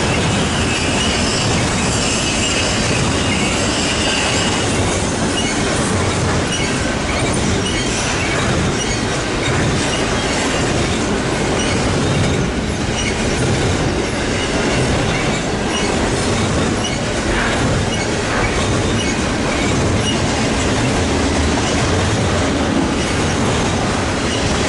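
A long BNSF intermodal freight train rolling steadily past, its wheels clacking over the rail joints. There is a high wheel squeal in the first few seconds.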